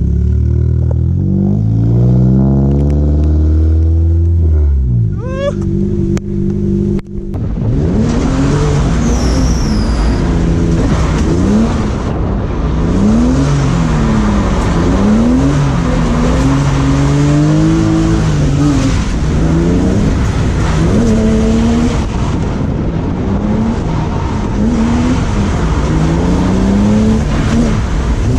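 BMW E36 engine revving hard from inside the car, its pitch climbing, dropping briefly about six seconds in, then rising and falling again and again as the car slides. From about seven seconds on, a loud rushing noise of wind and wet-road spray runs under the engine.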